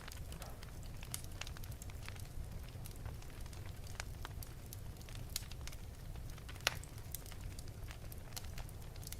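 Wood fire burning in an open fireplace: a steady low rumble of the flames with scattered sharp crackles and pops, the loudest pop about two-thirds of the way through.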